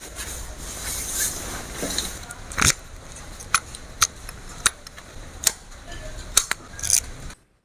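A steady hiss, then a string of about eight sharp mechanical clicks at uneven intervals from the Royal Enfield Meteor 350.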